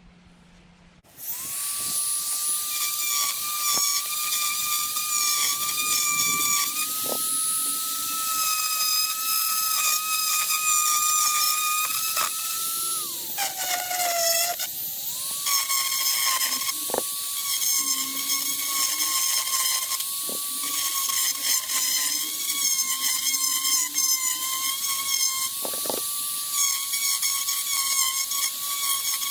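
Dremel rotary tool with a wood bit running at high speed, hollowing out a cork stopper. It starts about a second in as a steady high whine, and its pitch drops for a couple of seconds around the middle before rising back.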